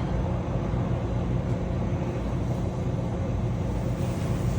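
Steady low rumble with a faint even hiss above it, no clear events.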